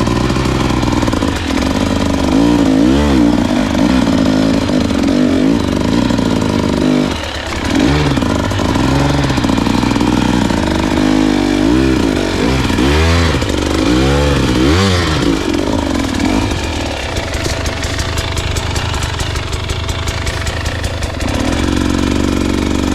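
Dirt bike engine being ridden slowly through a tight switchback, its revs rising and falling over and over as the throttle is blipped, then running lower and steadier for the last few seconds.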